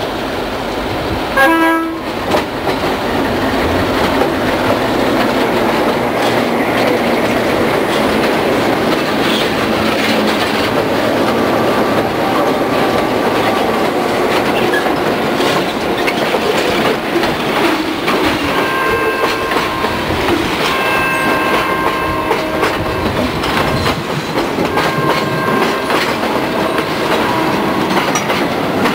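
Diesel freight train passing close by: a short horn blast about a second and a half in, then the steady rumble and clickety-clack of locomotives and freight cars rolling past, with intermittent high wheel squeal in the second half.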